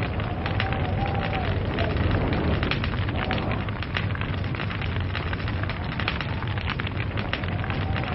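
Wood log fire crackling, with many irregular sharp pops and snaps over a steady low rumble of the flames.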